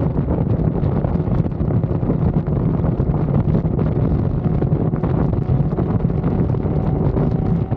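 Yamaha R6 sport bike's inline-four engine running at a steady cruise, with heavy wind buffeting on the microphone.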